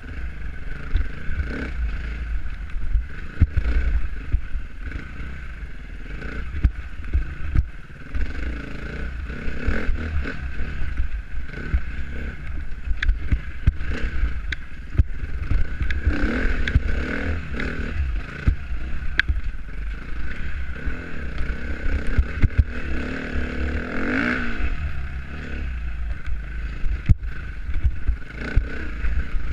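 Dirt bike engine running under way, its pitch rising and falling as the throttle opens and closes, over a heavy low rumble, with frequent sharp knocks and rattles.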